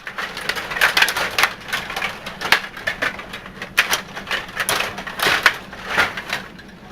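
Table hockey game in fast play: rapid, irregular clacking and rattling of the control rods, plastic players and puck knocking against each other and the boards.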